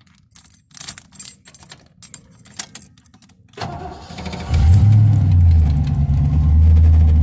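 Car keys jangling, then a car engine cranks and catches about three and a half seconds in, settling into a steady, loud idle.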